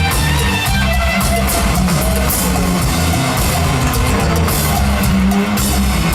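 Rock band playing live, with electric guitar, bass guitar and a drum kit keeping a steady beat.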